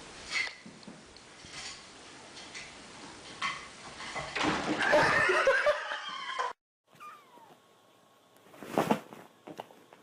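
A cat meowing loudly in a long, wavering yowl that cuts off abruptly about six and a half seconds in. After a brief silence, a different clip follows with a short sharp knock near the end.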